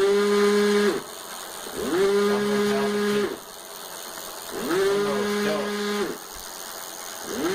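Ancheer e-bike motor whining in short bursts of about a second, each rising quickly in pitch and then holding steady over a lower hum. It happens three times, with a fourth starting near the end. The owner takes it for a bad motor that won't drive the bike.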